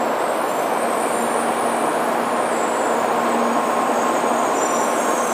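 Shinkansen bullet train moving past along a station platform: a steady rushing noise with a faint low hum underneath.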